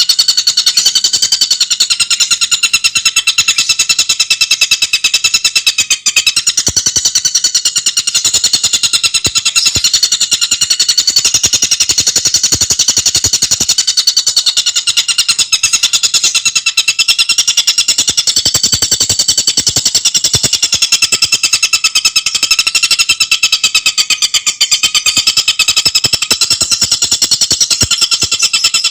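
Tengkek buto bird giving a fast, unbroken chattering trill of many high-pitched notes a second, kept up without pause.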